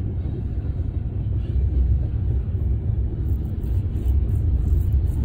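Freight train rolling slowly past a railroad crossing, a steady low rumble heard from inside a waiting car.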